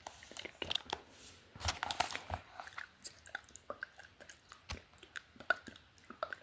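Close-miked ASMR mouth sounds: quick, wet clicks and smacks of lips and tongue, irregular and scattered, with a short breathy rush about one and a half seconds in.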